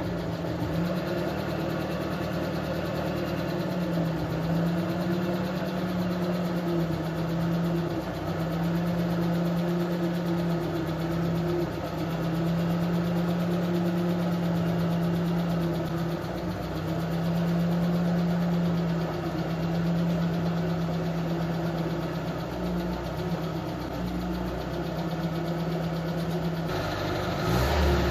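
UAZ off-roader's engine running steadily at an even pitch, with a deeper, louder rumble coming in near the end.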